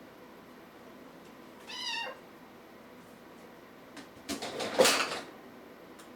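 A kitten gives one short, high-pitched meow. A couple of seconds later comes a louder, noisy rustling burst about a second long.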